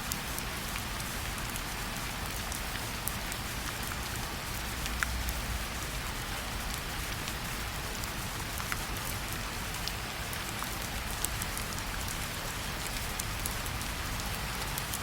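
Steady rainfall, an even hiss with scattered individual drop ticks.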